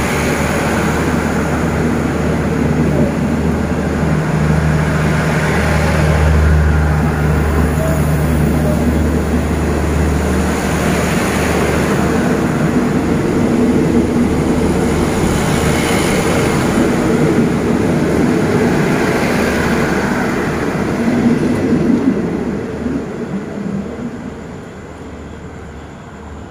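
State Railway of Thailand passenger coaches rolling past close by as the express pulls out: a steady rumble of wheels on the rails. It fades about 22 seconds in as the tail of the train draws away.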